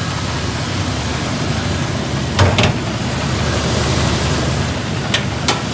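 Geo Tracker's four-cylinder engine idling steadily while still cold, shortly after a cold start. A few sharp clicks come about two and a half seconds in and twice more near the end.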